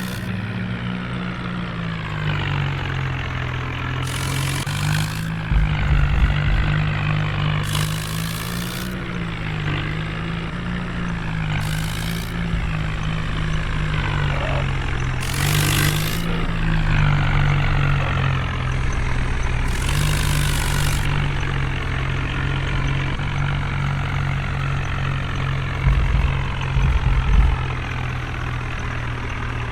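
Heavy diesel engine running, its pitch rising and falling, with five short bursts of hiss a few seconds apart and two louder low rumbles.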